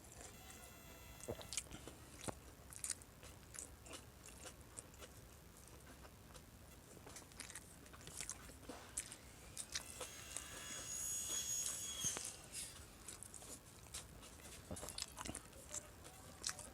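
A person eating paksiw na bangus (milkfish stewed in vinegar): chewing, with many short sharp clicks and smacks, and a louder, noisier stretch about ten to twelve seconds in.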